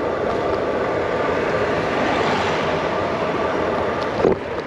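Steady wind noise and road rumble picked up by a handlebar-mounted GoPro on a moving bicycle. A brief louder sound falling in pitch comes near the end.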